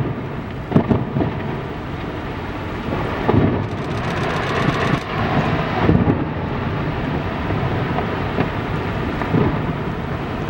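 Strong storm wind rushing steadily, with gusts buffeting the microphone in low rumbles every few seconds.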